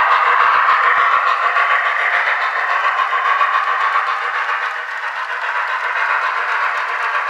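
Steam locomotive running sounds from the Soundtraxx Tsunami sound decoder in an HO scale Boston and Maine R-1 model: a steady hissing chuff played through the model's small speaker, with no bass, and a few clicks in the first second.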